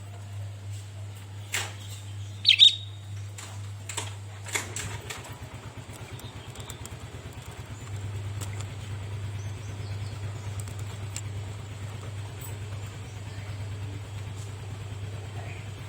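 Sooty-headed bulbul (kutilang) giving a short, loud call about two and a half seconds in, among a few sharp clicks, over a steady low hum.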